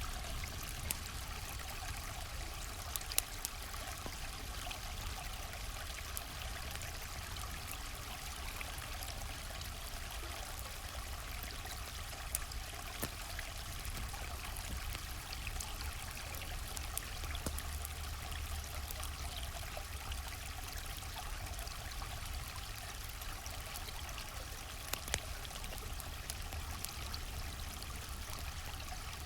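River water flowing and rushing steadily, with a low rumble underneath and a few scattered sharp pops, as of a campfire crackling.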